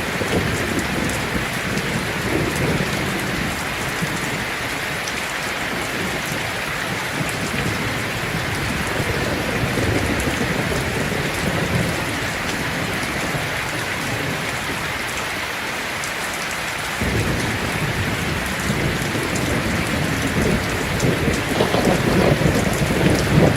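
Heavy rain drumming steadily on a tin roof, with thunder rumbling low underneath. A louder rumble starts suddenly about two-thirds of the way through and grows toward the end.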